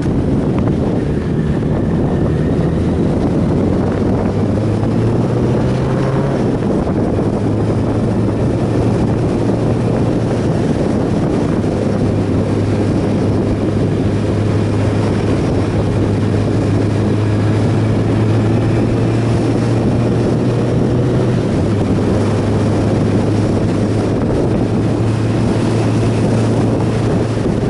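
Motorcycle being ridden at speed: the engine runs steadily under heavy wind noise on the microphone, its low hum stepping in pitch a few times.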